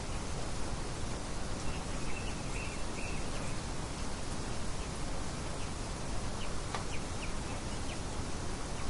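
Steady rushing wind noise with faint bird chirps over it: a short run of high chirps about two to three seconds in, and a few scattered brief chirps later.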